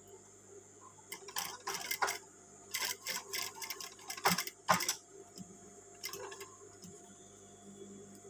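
Irregular rustling and sharp clicks of fabric and sewing tools being handled, with two louder clicks a little past the middle, over a faint steady hum.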